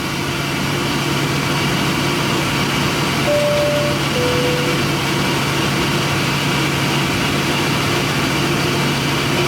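Steady airliner cabin noise of the jet engines idling while the plane waits to take off. About three seconds in, a two-note high-low chime sounds over it.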